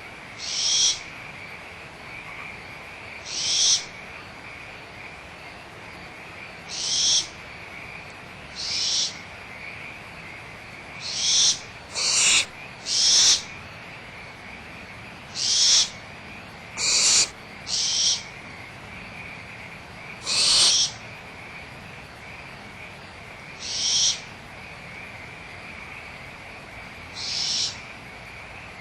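Barn owl owlets giving hissing, snore-like begging calls: about a dozen short, high hisses at irregular intervals, some in quick pairs. A steady high-pitched frog chorus runs underneath.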